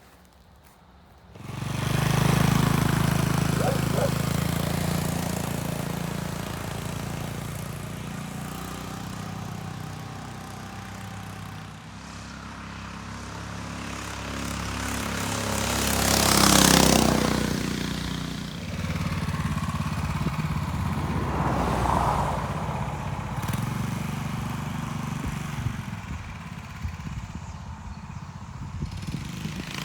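Predator 301cc single-cylinder engine of a home-built dirt bike running under way on a road ride, with wind rush on the microphone. It comes in suddenly about a second and a half in and swells to its loudest a little past the middle.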